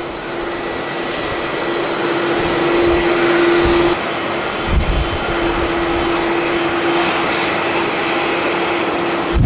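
Jet airliner engine noise from a plane moving on or near the runway, a loud, steady noise with a constant hum running through it. The sound builds for about four seconds, then changes abruptly.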